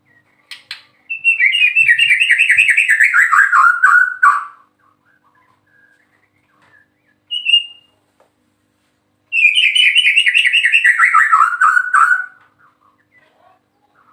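White-rumped shama (murai batu) singing. It gives two long phrases of rapid notes that slide downward in pitch, each about three seconds long, with a single short note between them.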